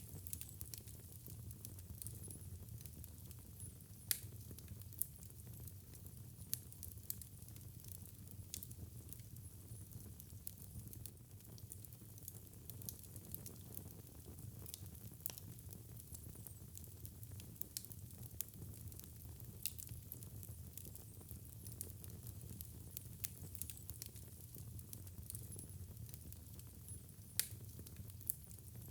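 Wood fire crackling in a fireplace: a steady low rumble of flames with scattered sharp pops and snaps. The strongest pops come about four seconds in and near the end.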